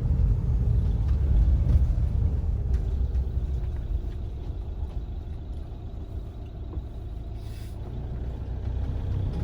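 Steady low rumble of engine and tyre noise heard inside a moving car. It eases off a little in the middle and builds again near the end.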